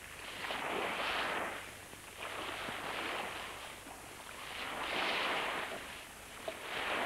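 Sea waves surging and falling back, a rushing noise that swells and fades about every two seconds.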